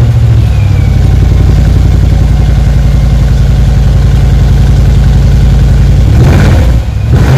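Audi RS6's twin-turbo V8 idling steadily through its oval tailpipes just after starting, then revved briefly a couple of times near the end.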